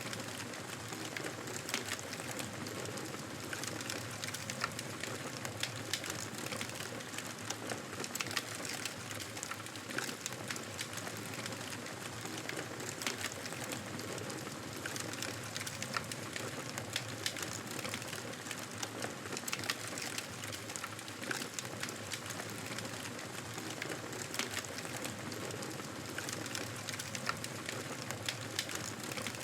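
Wood fire crackling steadily: a dense scatter of small pops and snaps over a soft, even hiss.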